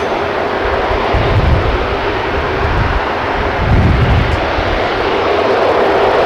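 Boeing KC-135R's four CFM56 turbofan engines running loud, a steady jet roar with a constant hum, and a low rumble that swells twice.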